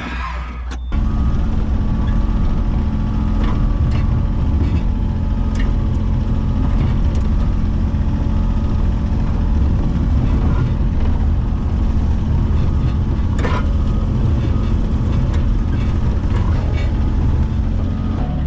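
A large engine running steadily. It comes up to a louder, even drone about a second in and holds there.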